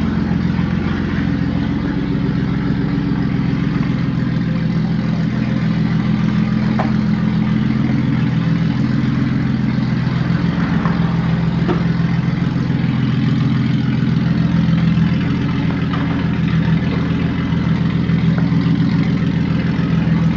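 Mercedes-Benz car engine running steadily at idle or low speed, with a couple of faint clicks over it.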